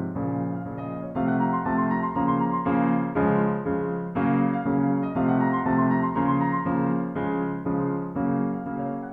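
Piano music: chords struck in a steady, even rhythm.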